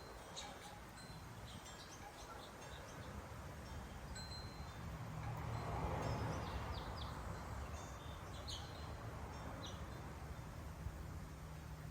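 Wind chime ringing lightly with scattered high chirps of small birds at the feeders, over a low rumble that swells and fades around the middle.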